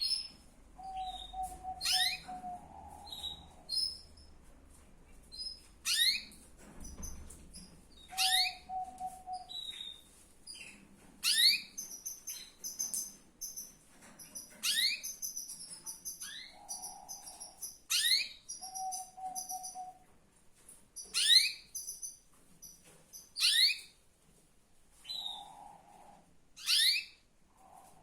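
Female canary calling: sharp, high chirps that sweep steeply down in pitch, repeated every couple of seconds, with short low trills of rapid notes between them. These are a female in breeding condition, the calls used to bring a male into song.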